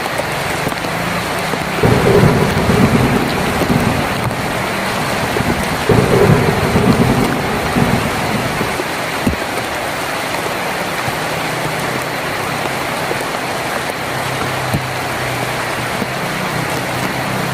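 Heavy rain falling steadily on a tin roof, with two low rumbles of thunder, about two and six seconds in.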